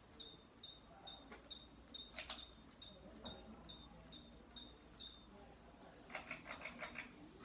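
A 42-inch Hampton Bay Florentine ceiling fan running on high, with a sharp, high-pitched tick repeating evenly about twice a second. A short run of quicker clicks comes near the end.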